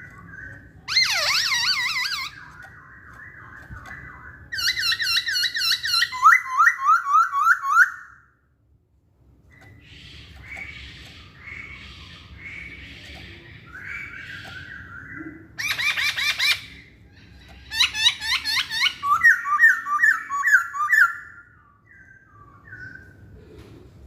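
Chinese hwamei (poksay Hongkong) singing: loud, varied whistled phrases built from fast runs of repeated notes and trills, with a brief pause about a third of the way through.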